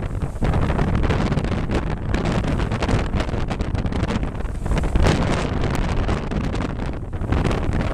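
Wind buffeting the microphone aboard a sailboat at sea: a steady rough rumble broken by quick crackling gusts.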